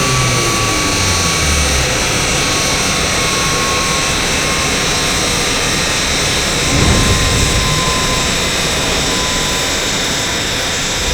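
Steady rushing of dynamometer cooling blowers, with a faint whine slowly dropping in pitch as the rollers spin down after a power run. A brief low rumble comes about seven seconds in.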